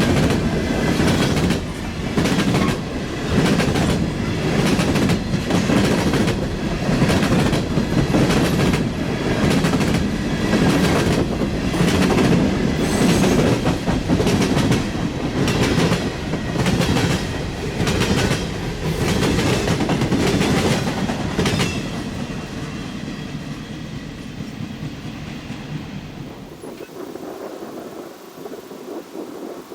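Train cars rolling past close by, wheels clicking over rail joints in a steady rhythm. The sound fades away over the last several seconds as the train moves off.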